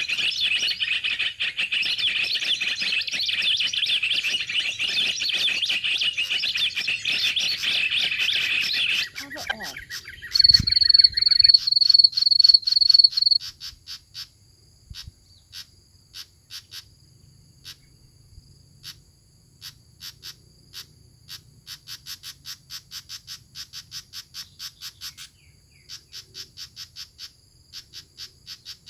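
Wild birds and insects calling. A dense high chirring lasts about nine seconds, then comes a run of about eight loud, high, evenly spaced pips, then soft short chips repeating about twice a second.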